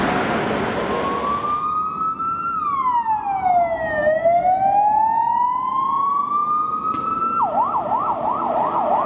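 Emergency vehicle siren in a slow wail that rises, falls and rises again, switching to a fast yelp about seven and a half seconds in. A passing tram's rumble fades out over the first second or so.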